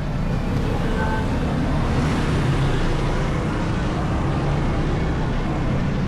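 Motorcycle on the move at a steady pace, its engine running under wind and road noise on the microphone.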